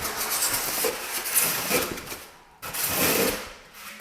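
Refrigerator packaging being pulled and scraped in two long rough strokes, the first about two seconds long, then a short pause and a second one.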